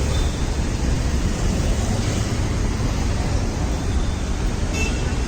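Steady low rumble of vehicle and road noise, even throughout with no distinct events.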